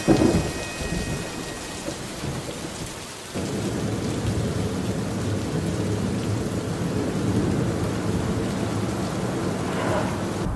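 A rumble of thunder at the start, fading away over the next few seconds. Then a sudden change to rain hitting a car windscreen, heard inside the moving car over steady road noise.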